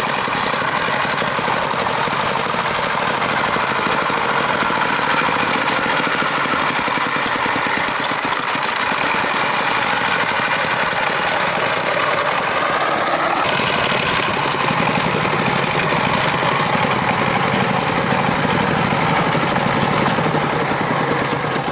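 Farm truck's engine running steadily with a fast, even pulsing; its sound changes about two-thirds of the way through.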